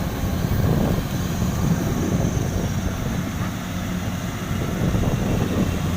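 Kubota DC93 combine harvester's diesel engine running steadily while it harvests rice, a constant low drone.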